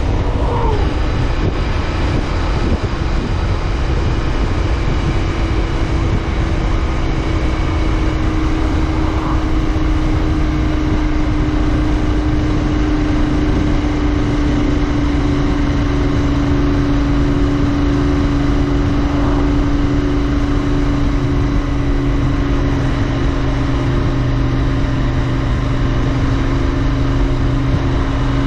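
Royal Enfield Interceptor 650's parallel-twin engine running at a steady cruise under way, with wind and road noise. The revs drop quickly just after the start, then the engine note holds steady and sags slowly.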